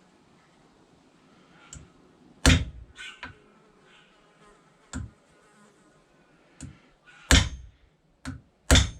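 Hammer striking a steel punch: about seven irregular, sharp knocks. The loudest come about two and a half seconds in and twice near the end. The punch is driving part of a splitting maul's new handle fitting further into the head.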